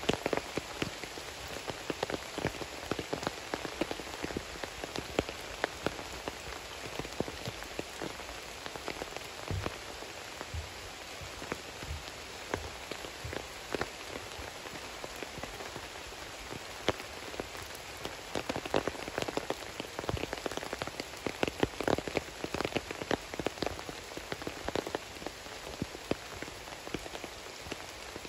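Steady rain with many separate drops clicking irregularly on a nearby surface, heaviest in the second half, and a few dull low thumps around the middle.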